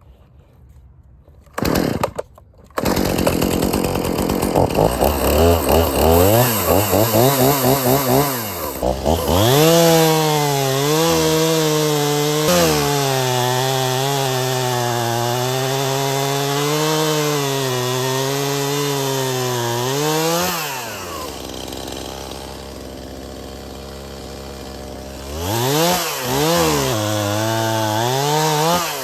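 Stihl MS 271 two-stroke chainsaw. It comes in about three seconds in and is blipped up and down a few times, then holds high revs for about ten seconds, cutting through wood with the pitch wavering under load. It then drops back to a lower idle and is revved up twice near the end.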